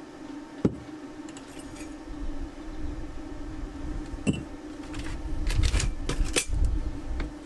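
Short crackling bursts from a MIG welder's arc striking in brief attempts, about five to seven seconds in, after two sharp single clicks, over a steady hum.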